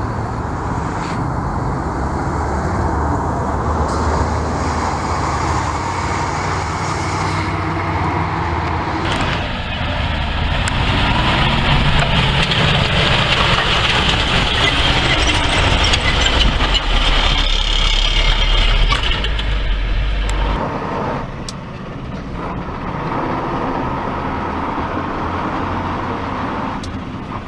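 Kamaz 740 V8 truck diesel engine running, heard in a few spliced clips; the sound changes abruptly about a third of the way in and again near two-thirds, and the middle stretch is the loudest.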